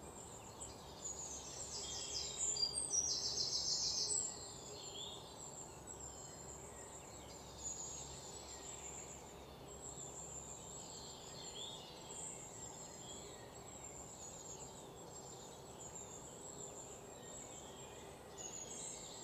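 Birds chirping and calling, with a louder run of rapid chirping from about two to four seconds in, over a low steady hiss.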